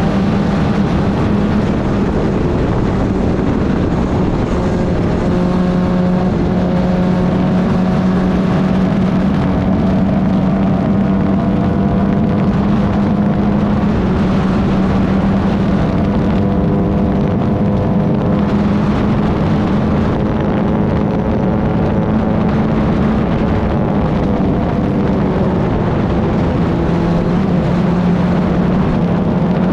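Club Ford race car engine running hard on track, its note rising and falling in pitch as it accelerates, shifts and slows for corners, with rushing wind noise.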